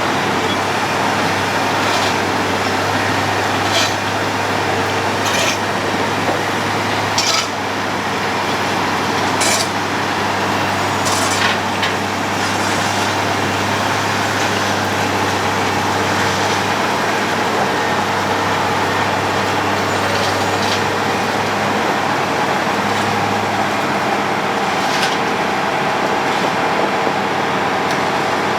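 Road planer milling the road surface: its diesel engine hums steadily under dense, even grinding noise, with sharp knocks every second or two through the first twelve seconds and a few more later.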